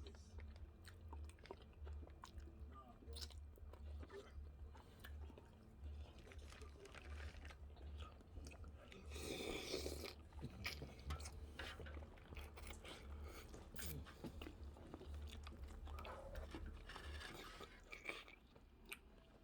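A person chewing and biting food close to the microphone, with steady jaw thuds and small wet clicks. A louder crunch comes about halfway through.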